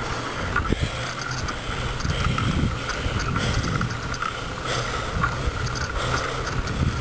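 Steady wind and road noise of a bicycle ride uphill, with uneven low swells.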